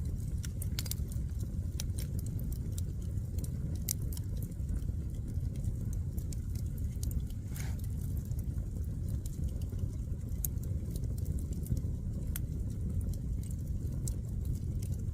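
Wood fire burning: a steady low rush of flame with sharp crackles and pops of the burning firewood, coming irregularly.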